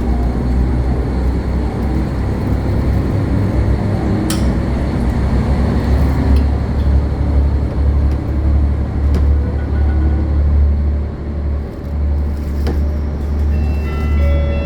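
Limited Express Hokuto diesel train running, a steady loud low rumble, with a sharp click about four seconds in and faint steady tones near the end.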